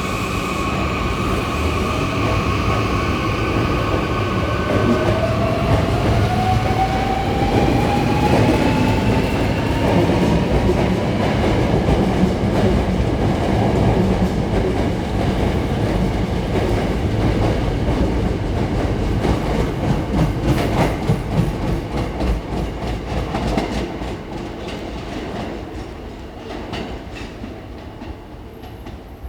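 Hankyu electric commuter train pulling out and accelerating. Its traction-motor whine rises in pitch, then the wheels clack over rail joints faster and faster as the cars pass, and the sound fades away near the end.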